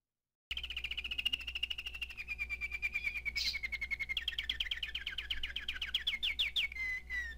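Songbird singing fast trills, starting about half a second in: a long run of rapid chirps that slowly drops in pitch, then a second, slightly higher trill about four seconds in, over a faint low hum.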